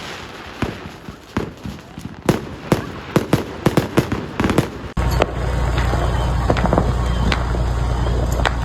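Fireworks going off in irregular sharp cracks and bangs, some in quick clusters. About five seconds in the sound changes abruptly to a steady low rumble, with more scattered cracks over it.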